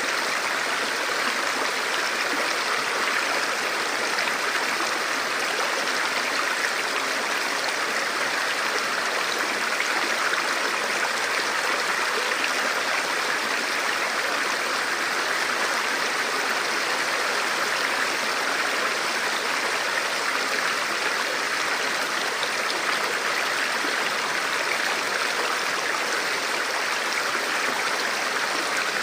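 Forest stream flowing steadily over rocks, an even rushing and babbling of water.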